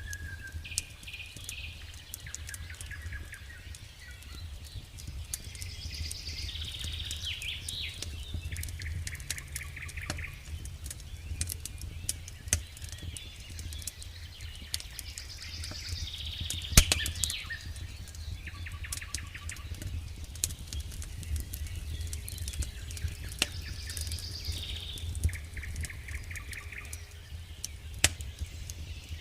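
Campfire crackling, with scattered sharp pops, one louder pop about halfway through, over a steady low rumble. Songbirds sing a repeated phrase of high notes and quick trills several times.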